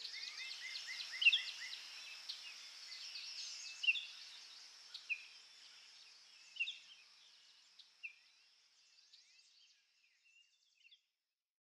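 Birds chirping outdoors: a quick run of short rising chirps about a second in, then scattered single chirps over a faint high hiss, fading away near the end.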